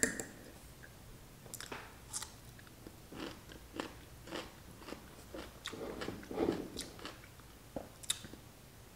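Crunchy biting and chewing of a kosher dill pickle spear, in a string of irregular crunches.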